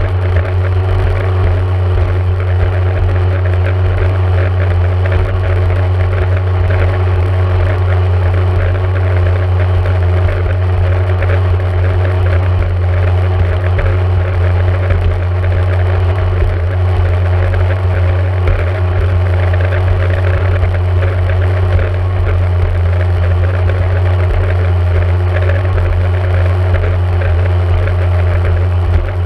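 A 1994 Yamaha Wave Raider's two-stroke engine running at a steady, even speed with a strong low hum, unchanged throughout.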